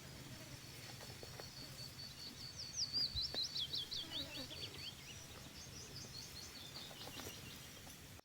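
A songbird singing: a run of quick high notes at an even pace, then a fast flurry of downward-sweeping whistled notes a few seconds in, and a shorter run of sweeping notes near the end.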